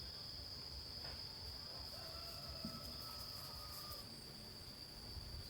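Insects, likely crickets, giving one steady, unbroken high-pitched trill. A faint held tone joins in for a couple of seconds in the middle.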